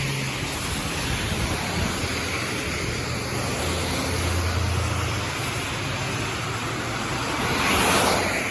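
Steady hiss of rain with traffic on a wet road: a low engine hum in the middle, and a vehicle swishing past near the end.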